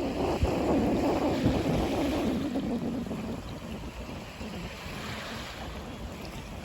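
Sea waves washing onto the shore, with wind on the microphone; the wash is loudest in the first few seconds and then ebbs away.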